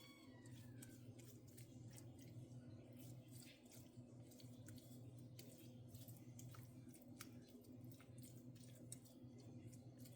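Faint, scattered soft clicks and squishing of a spoon spreading cooked spinach into a layer of a lasagna, over a low steady hum.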